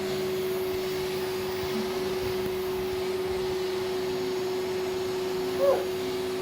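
Vacuum cleaner running steadily, a constant motor hum with airflow hiss. A short high-pitched call cuts in briefly near the end.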